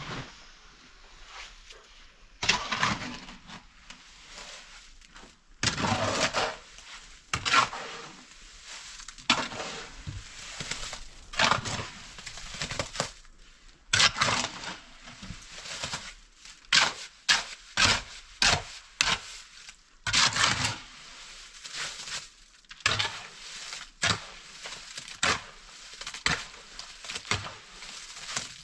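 Irregular scraping and crunching strokes of hand construction work, one every second or two.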